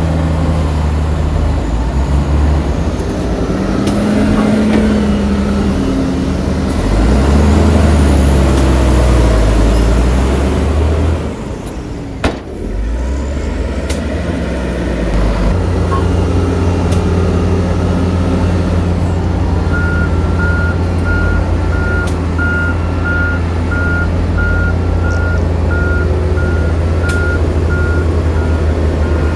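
Heavy diesel construction machinery running, its engine revs rising and falling, easing off with a sharp click about twelve seconds in, then running steadily. Over the last third a reversing alarm beeps at an even pace.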